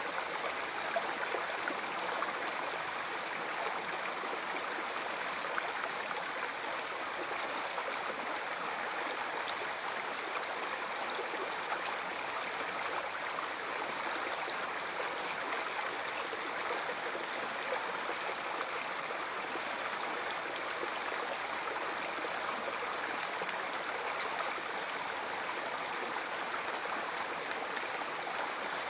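River water flowing, a steady even rushing and gurgling.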